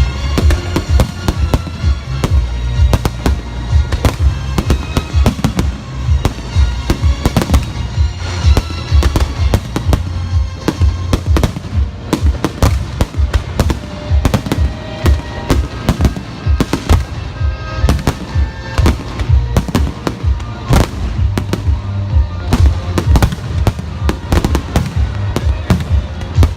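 Fireworks display: a rapid, unbroken run of shell bursts and bangs, several a second, with music playing along underneath.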